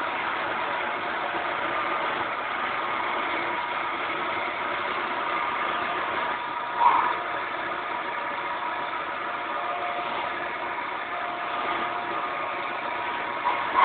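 Wood lathe running steadily, a mechanical drone with a steady tone, and one short, louder sound about seven seconds in.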